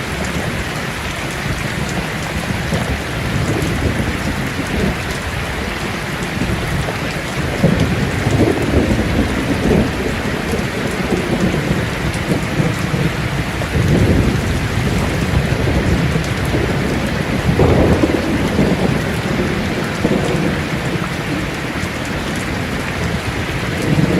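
Heavy rain drumming on a tin roof, with rolls of thunder swelling up several times, strongest about eight, fourteen and eighteen seconds in.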